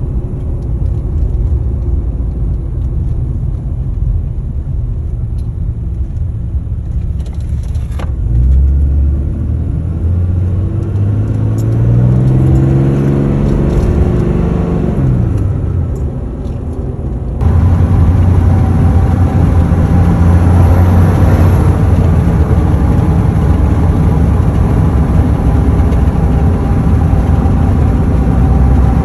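Ram 2500's 6.7 L Cummins inline-six turbo-diesel running at idle, revved up once and let fall back to idle. About seventeen seconds in the recording cuts abruptly to a louder, steady run of the same diesel.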